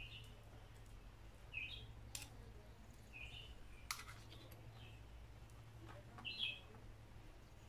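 Faint outdoor birds chirping, short notes repeated every second or two. A few light clicks from metal spoons scraping batter, the sharpest about four seconds in.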